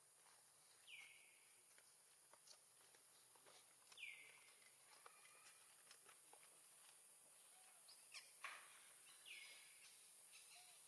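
Faint bird calls: three short high notes, each sliding down in pitch, a few seconds apart, with soft clicks and rustles in between and a sharper tap near the end.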